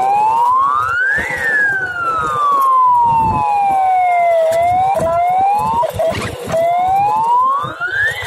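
Motorcycle engine pulling along a dirt road: its pitch rises under throttle, sinks slowly for a few seconds as the rider eases off, then drops abruptly several times as gears change and climbs again after each drop.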